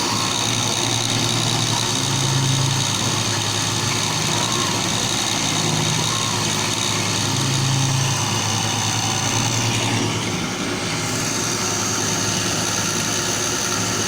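Desktop CNC machine running: a steady high whine with lower motor tones that change pitch every second or two as the machine moves. The high whine dips briefly about ten seconds in.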